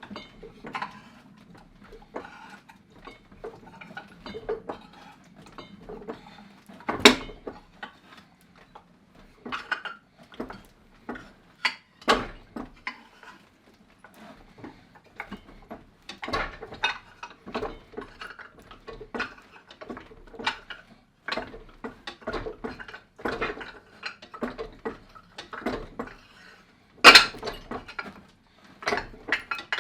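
Irregular metal clanks and knocks as 3 mm steel plate is pressed and shifted between a 4-inch steel ball and a doming block in a Norton No.8 fly press, forming it into a bowl. Two loud clangs stand out, about 7 seconds in and near the end.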